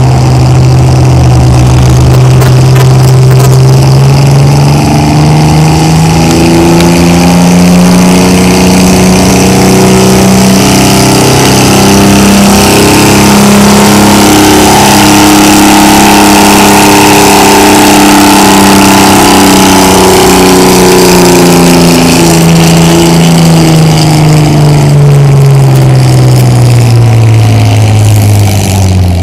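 Farmall 560 tractor engine running loud under full load while pulling a weight-transfer sled at a tractor pull. Its pitch climbs over the first ten seconds or so, holds, then sags steadily toward the end as the engine is pulled down by the sled's growing load.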